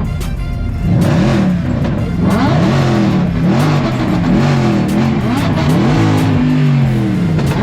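A car engine revved again and again, its pitch rising and falling in quick repeated blips over a steady low rumble.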